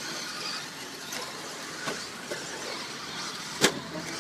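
RC stadium trucks racing round an off-road track: a steady hiss of motors and tyres, broken by a few sharp knocks, the loudest near the end.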